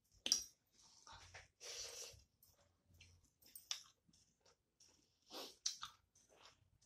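A person chewing a mouthful of rice and chicken curry close to the microphone: wet mouth clicks, smacks and soft crunches at irregular moments, the sharpest click just after the start.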